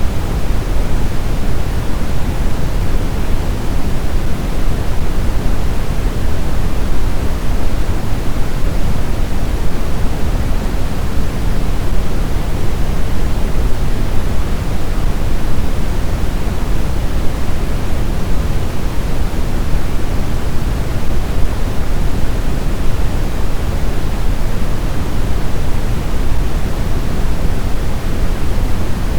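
Snowstorm wind: a steady, loud rushing noise weighted toward the low end, with no gusts, howls or whistling.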